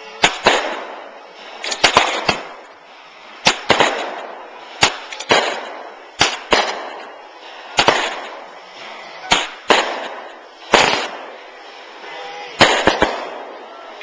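Fireworks going off in quick succession: sharp bangs about every second or so, often two or three close together, each followed by a short fading tail.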